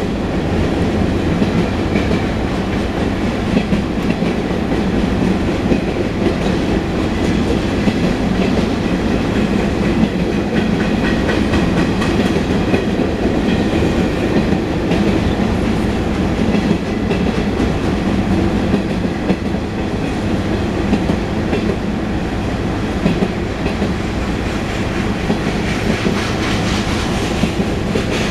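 Union Pacific mixed freight train rolling past at close range: a steady, loud rumble of freight cars with wheels clattering over the rail joints.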